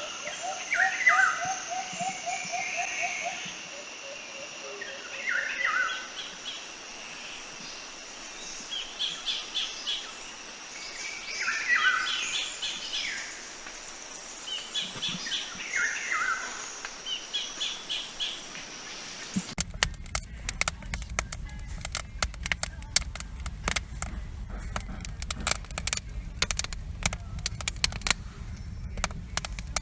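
Birds singing, one repeating a short falling phrase every few seconds, with higher trills between. About two-thirds of the way through it cuts abruptly to dense crackling and sizzling over a low rumble.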